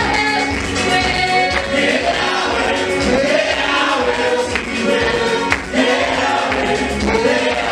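Gospel choir singing with a live band accompaniment and a steady beat.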